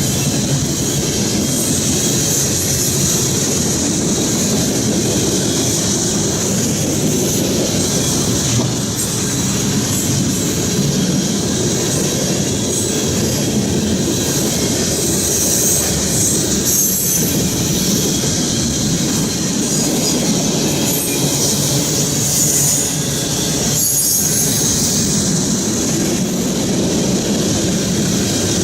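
Norfolk Southern freight train's cars rolling past close by: a steady loud rumble of steel wheels on the rails, with a continuous high-pitched wheel squeal above it.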